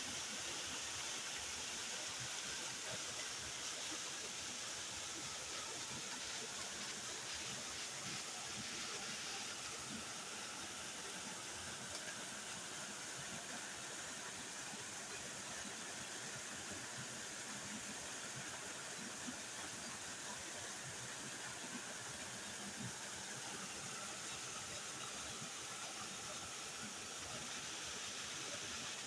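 Waterfall: water falling and splashing in a steady hiss, strongest in the upper range.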